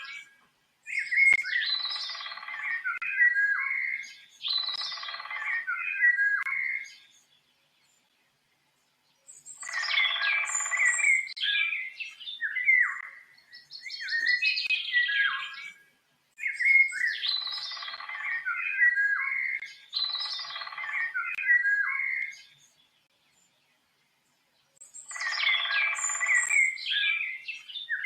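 A songbird singing bouts of quick, varied warbling phrases, each bout a few seconds long, with a second or two of dead silence between them. The same run of phrases comes round again about halfway through, as a looped recording does.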